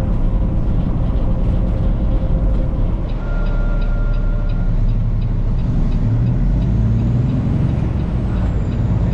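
Semi truck's diesel engine running as heard inside the cab, its note rising in the second half as the truck pulls harder. A short beep about three seconds in and a quick regular ticking for a few seconds in the middle.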